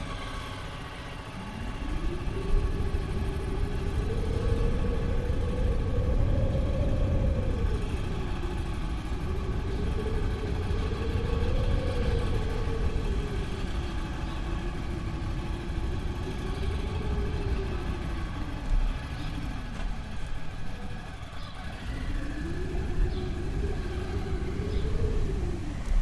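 Wind blowing in slow gusts, a low rushing sound that swells and eases every few seconds.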